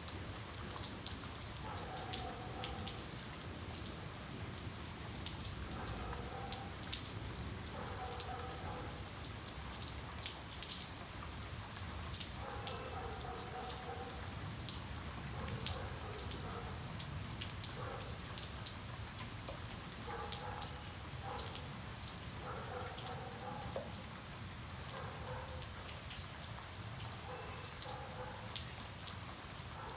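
Steady rain falling, with many separate drops ticking on a hard surface close by. Through it, a faint short pitched call repeats every second or two.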